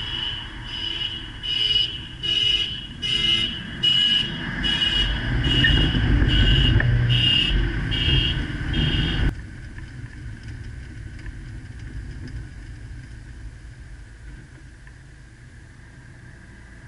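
Car driving noise with a high-pitched beep repeating about every 0.6 s over a low rumble that grows louder midway. It cuts off suddenly to a quieter, steady hum of road and wind noise.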